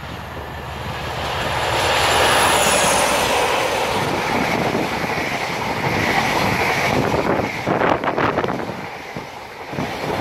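Class 47 diesel locomotive passing close at speed under power. Its engine note peaks about two seconds in, with a high whine falling in pitch as it goes by. The rolling noise of the hauled coaches follows, with wheels clicking over rail joints near the end.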